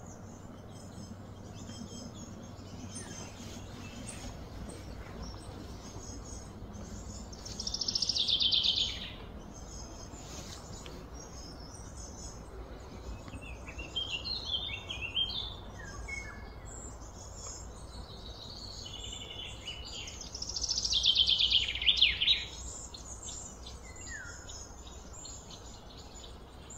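Birds chirping and calling over steady outdoor background noise. Twice, a louder, rapid phrase falls in pitch.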